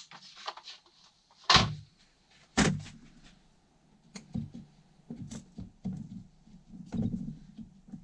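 Tools being moved and set down on a workbench: two heavy knocks about a second and a half and two and a half seconds in, then lighter clatter and shuffling.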